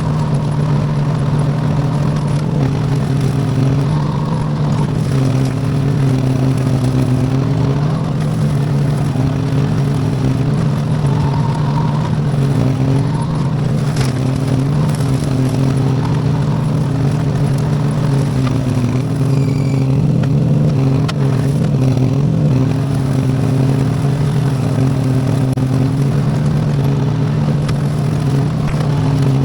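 V-twin Briggs & Stratton engine on a small Iseki tractor running steadily at constant speed while mowing with a bush hog rotary cutter.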